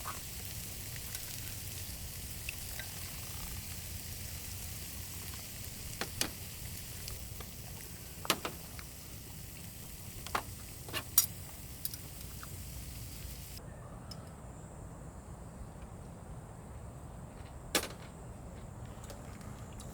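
Food sizzling in a hot pan, with sharp clicks and taps now and then. The sizzle stops abruptly about two-thirds of the way through, leaving a low steady hum and a couple more clicks.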